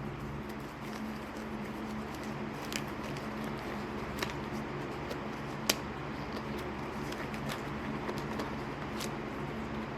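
A steady low hum throughout, with four sharp clicks spread through it, the loudest about six seconds in.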